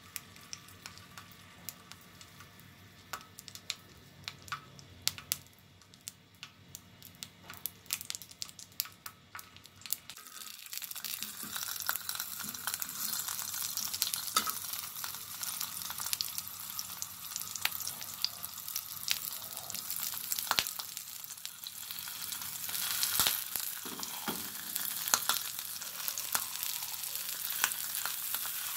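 Halved green bell peppers frying in oil on a flat griddle: faint scattered crackles at first, then from about ten seconds in a louder, steady sizzle with frequent crackling pops as the peppers sit skin-side down in the hot oil.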